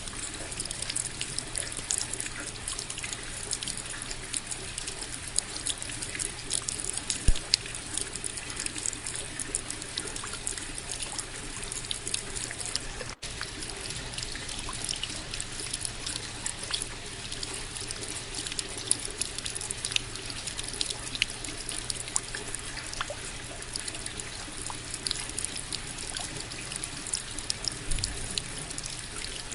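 Steady rain falling, with many sharp individual drop hits over an even hiss of water; the sound drops out for an instant about halfway through.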